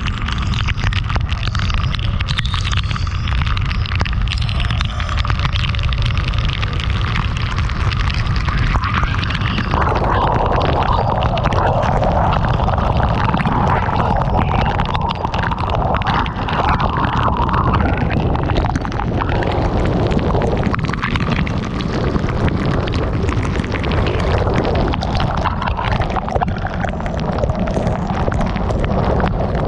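Heavy rain pelting a moving car, with steady low wind rumble and a dense patter of drops. The noise swells in its middle range about ten seconds in and stays loud.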